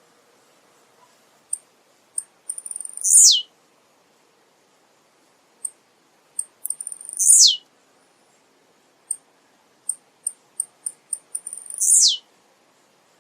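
Male blue-black grassquit (tiziu) singing its short song three times, about every four seconds. Each song is a quick run of high ticking notes ending in a loud, fast falling sweep.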